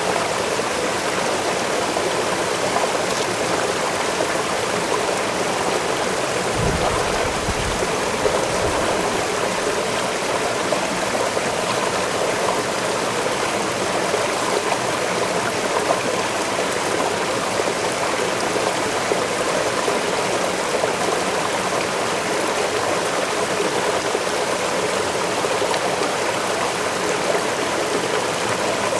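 Waterfall rushing steadily into a stream, an even wash of falling and running water. A brief low rumble comes about seven seconds in.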